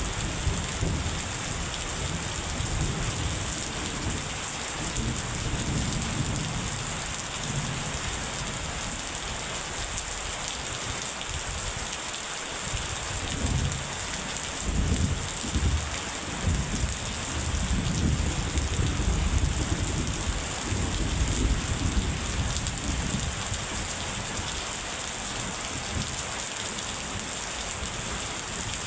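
Steady heavy rain hissing on surfaces, with thunder rolling in low rumbles underneath, swelling about halfway through.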